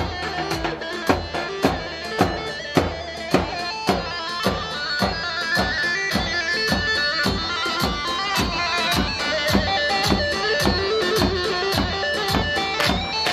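Instrumental Turkish halay dance music: a shrill, reedy lead melody over a steady, fast drum beat, with no singing.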